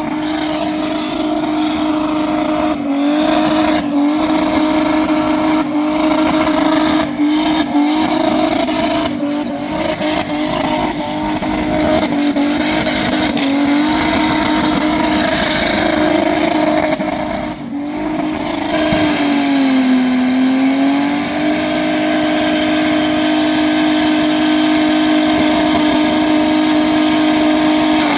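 V8 burnout car's engine held at high, nearly constant revs while its rear tyres spin, with tyre noise under it. About twenty seconds in the revs sag briefly, then climb back and hold steady again.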